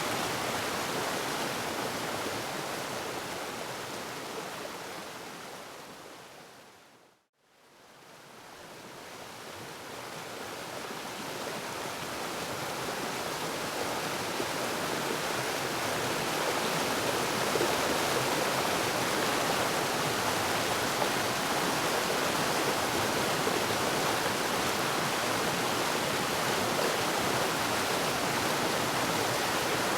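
Waterfall rushing in a steady roar of falling water. It fades right out to silence about seven seconds in and builds back up over the next several seconds, the join where the recording loops.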